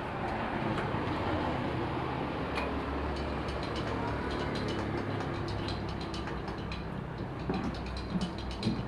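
A steady low mechanical hum, with a run of sharp clicks and knocks in the last few seconds.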